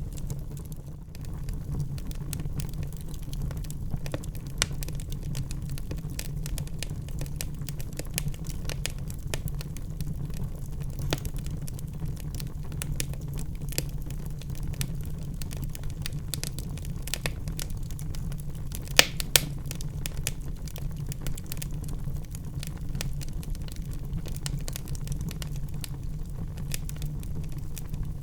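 Wood fire burning in a fireplace: a steady low rumble with scattered crackles and small pops throughout, and two sharper pops close together about two-thirds of the way through.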